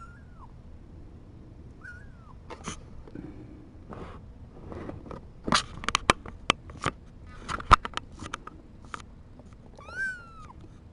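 Kittens mewing, short high calls that rise and fall: one at the start, one about two seconds in and one near the end. In between comes a run of sharp clicks and knocks, the loudest sound here.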